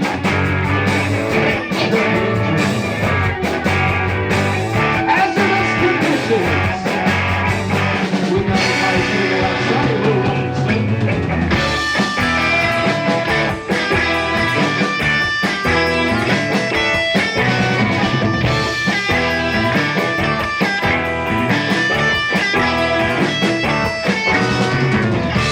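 Live rock band playing: electric guitars over a drum kit, a continuous full-band passage that stays loud throughout.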